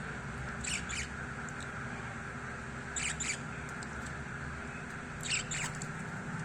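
A bird giving short, high squeaky calls in pairs, three times about two and a half seconds apart, over a steady low background noise.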